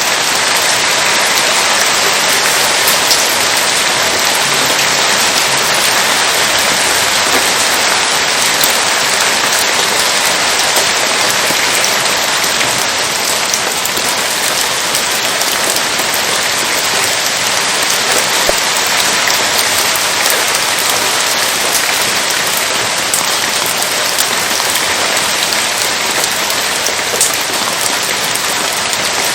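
Steady rain falling, a loud even hiss with a few faint ticks scattered through it.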